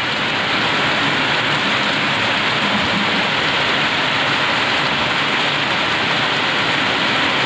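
Heavy, continuous rain pouring down, a steady even hiss.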